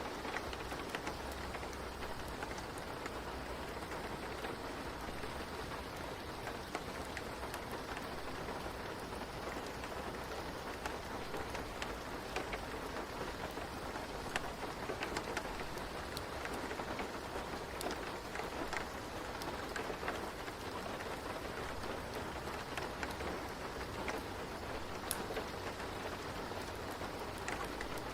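Steady rain falling, with scattered sharp crackles of a wood fire in a fireplace and a low rumble underneath.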